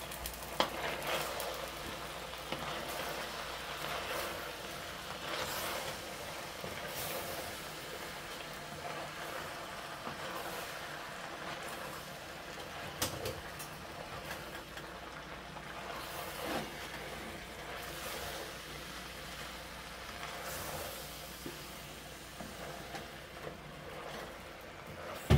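Beans and vegetables sizzling in a hot stainless steel pot as a wooden spoon stirs them: a steady hiss with scattered clicks and knocks of the spoon against the pot.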